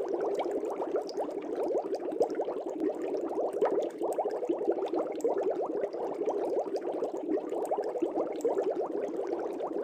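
Air bubbles bubbling steadily in an aquarium: a dense, unbroken stream of small bubbles, each a short rising blip.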